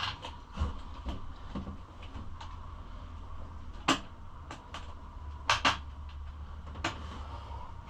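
Sharp metallic clicks and clinks of nuts, washers and hand tools as bolts are fitted to a pit bike's fender, a few isolated knocks with the loudest about four and five and a half seconds in, over a steady low hum.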